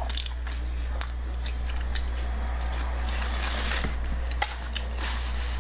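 Close-up chewing of a chicken wing with ranch dip: scattered wet mouth clicks and smacks over a steady low hum.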